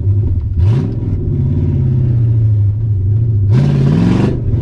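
Nissan VH45 4.5-litre V8 running through open headers, heard from inside the 300ZX's cabin: a steady rumble with a quick blip of revs about half a second in. Near the end the revs climb hard into a loud rasp, then drop off suddenly as the throttle closes.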